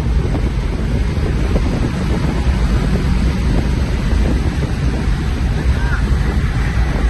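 Steady rumble of a car moving at speed, engine, tyre and wind noise together, with wind buffeting the microphone.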